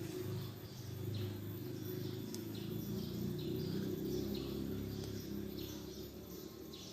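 A bird calling over and over in short falling chirps, about two a second, over a steady low background rumble.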